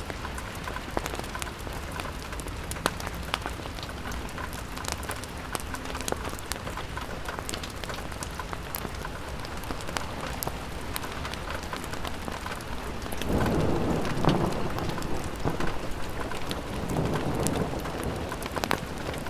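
Steady rain pattering on a window, with many scattered sharp ticks of drops. About two-thirds of the way through, and again near the end, a low rumble swells for a second or two.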